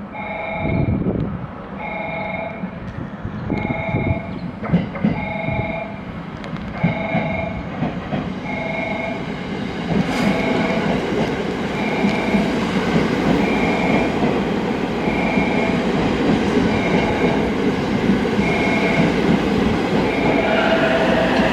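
Limited express electric train pulling into the platform, its rumble and wheel noise growing louder about halfway through, with a brake or wheel squeal near the end. A repeating two-tone warning chime sounds about once a second throughout, signalling the approaching train.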